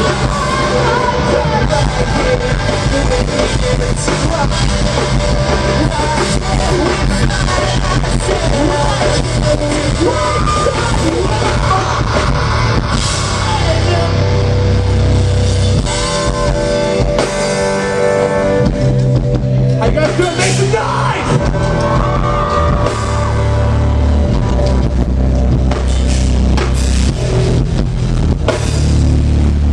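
A live rock band playing loudly: drum kit, bass and electric guitars, with singing.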